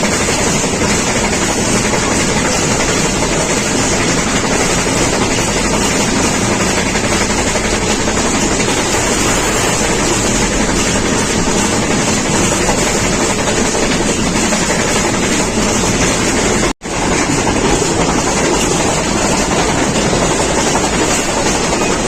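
Steady rushing noise of a moving passenger train, with wind buffeting the microphone. The sound cuts out for a split second about 17 seconds in.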